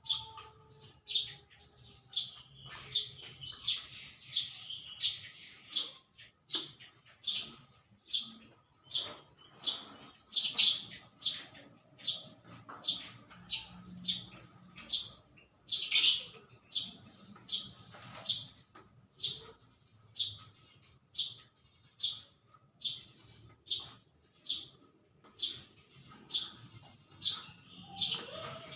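A small bird chirping over and over: short, high chirps at a steady pace of about two a second.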